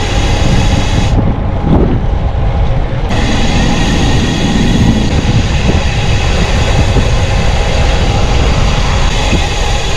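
Steady, loud rumble of a vehicle travelling along a road. The high end cuts out abruptly about a second in and comes back about three seconds in.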